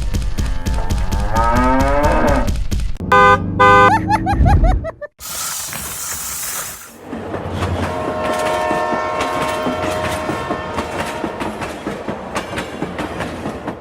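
Layered sound effects: a repeated mooing call rising in pitch, then two short, loud horn blasts a little past three seconds in, and a train rumbling under a steady held horn tone in the second half.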